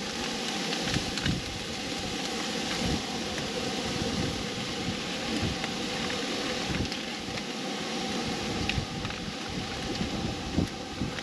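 Wind blowing across the microphone: a steady rush with irregular low rumbling buffets from the gusts.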